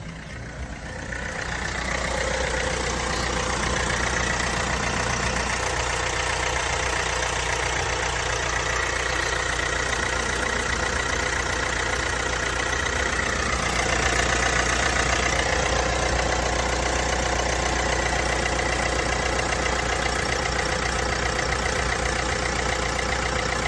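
Vauxhall Astra 1.6 engine running at idle with a rattle that has gone on for months, which the dealer could not find a fault for. It grows louder over the first two seconds.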